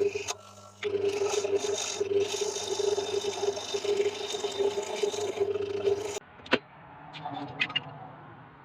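An electric power tool running on wood, a steady motor hum under a scraping noise. It pauses for about half a second near the start and cuts off about six seconds in. A sharp click and a few light knocks follow.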